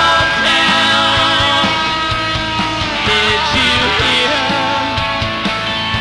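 Live rock band playing on a concert tape: electric guitars with bass and drums keeping a steady beat.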